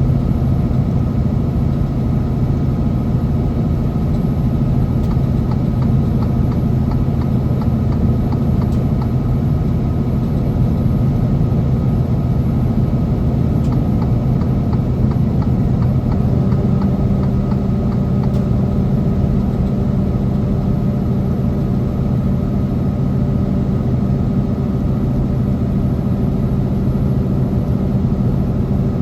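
Semi truck's diesel engine running steadily, a low drone with road noise. The engine note shifts slightly a little over halfway through.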